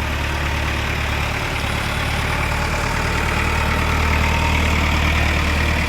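Tractor diesel engine running steadily, growing a little louder around the middle.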